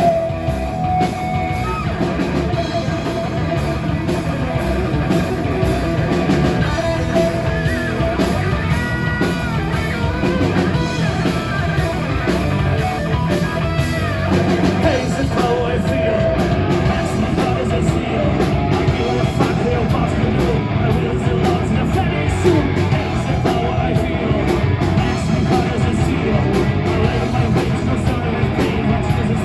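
Live rock band playing loudly, with electric guitar and drum kit, and singing over it.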